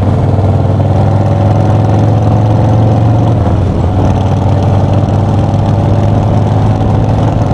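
Harley-Davidson V-twin motorcycle engine running steadily at highway cruising speed, under an even rush of wind noise.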